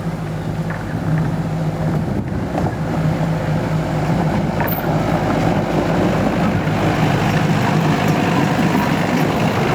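Train running: a steady low engine hum over a rumbling running noise, getting somewhat louder over the first few seconds.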